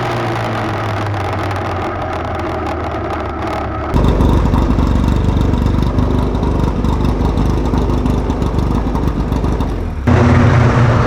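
Race car engine running hard. The sound changes abruptly twice, about 4 s and about 10 s in, getting louder and rougher each time, as if between different shots of the car on track.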